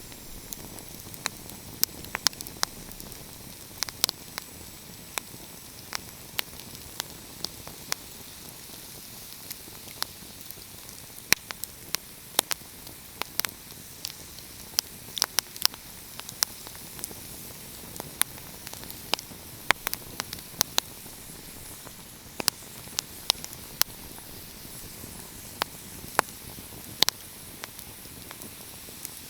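Wood fire crackling: irregular sharp pops and snaps, several a second at times, over a steady soft hiss.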